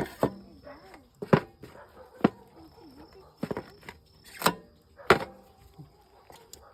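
A series of sharp knocks, about seven, irregularly spaced, with a faint wavering tone heard between them.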